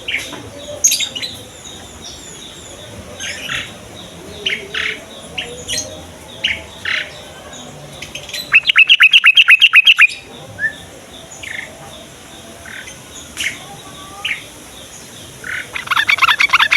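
Yellow-vented bulbuls chirping with short, scattered notes, broken midway by a loud rapid run of about a dozen notes and by another quick loud run near the end.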